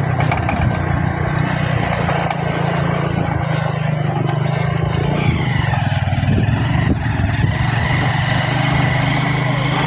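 Motorbike engine running steadily while riding, with wind and road noise over it.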